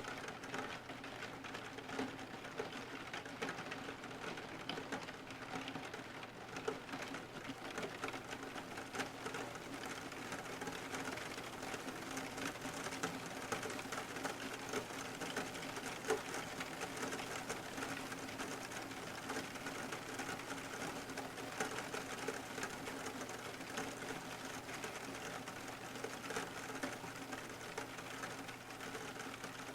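Rain pattering on a car's roof and windows as dense, even ticks of drops, with a steady low hum underneath.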